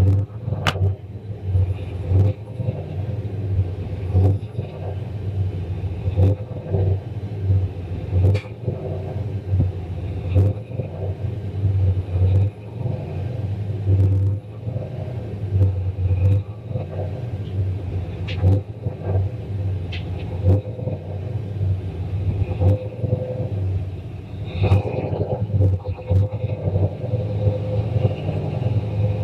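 Turbocharged 351 Windsor V8 of a Fox-body Mustang running through an open downpipe exhaust: a steady low rumble, with short sharp clicks and knocks every couple of seconds.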